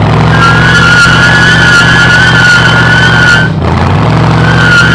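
A car doing a burnout: its engine is held at steady high revs while the spinning rear tyres squeal loudly with a high, slightly wavering tone. The squeal and revs drop out briefly about three and a half seconds in, then start again.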